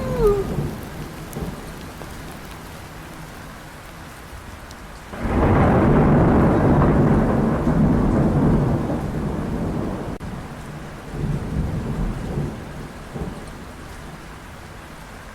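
Thunder rumbling over steady rain: a long, loud rumble starts suddenly about five seconds in and dies away over about five seconds, with fainter rumbles after it.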